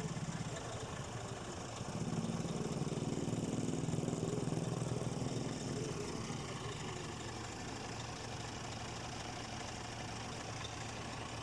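Scania R440 truck's six-cylinder diesel engine idling steadily. It swells louder for a few seconds about two seconds in, then settles back to a steady idle.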